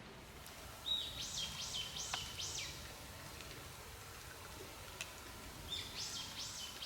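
A songbird singing twice: each phrase a held high note followed by three or four quick falling notes, the first about a second in and the second near the end.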